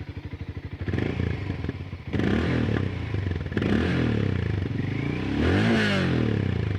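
Hero Mavrick 440's single-cylinder 440cc oil-cooled engine, heard through its exhaust, idling with an even thump and then revved in several throttle blips that rise and fall in pitch, settling back toward idle near the end. At the higher revs there is a light vibration noise.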